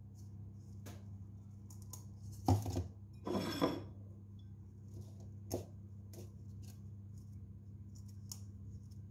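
Light clicks and taps of objects being handled, with a louder scraping rustle about two and a half seconds in, over a steady low hum.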